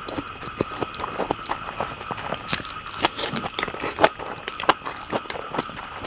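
Close-miked eating: irregular wet clicks and smacks of chewing, several a second. A steady high-pitched whine with a faint rapid pulse runs underneath.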